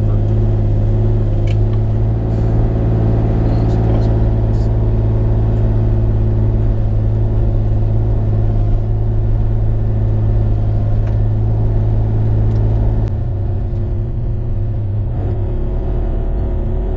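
Bobcat E35 mini excavator's diesel engine running steadily under work, with a low, even drone; about 13 seconds in the note drops and the sound gets a little quieter. A few faint clicks of wood and brush sound over it.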